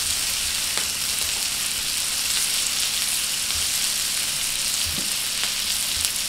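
Sockeye salmon steaks and asparagus sizzling steadily in melted butter on a hot electric griddle, with a few faint clicks.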